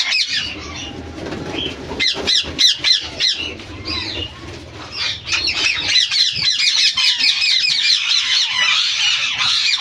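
A flock of Indian ringneck parakeets in an aviary, squawking in rapid, overlapping shrill calls. The calls thin out briefly at the start, then build back to a dense chorus from about five seconds in. A low rumble runs underneath for the first half.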